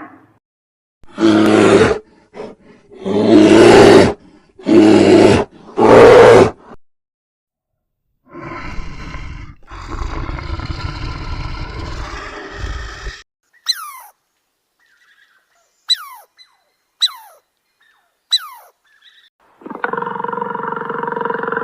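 A run of animal calls: four loud calls in the first few seconds, then a longer rough call, then four short, sharply falling chirps spaced about a second apart, and a steady call near the end.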